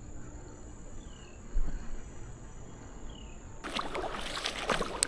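Faint creek-side ambience with a steady high insect drone and a few short falling chirps, then, a little over halfway through, louder splashing, rushing creek water with crackly ticks takes over abruptly.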